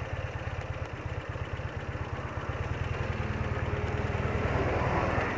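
BMW R80RT's air-cooled flat-twin boxer engine idling steadily at a standstill. A passing van grows louder over the last couple of seconds.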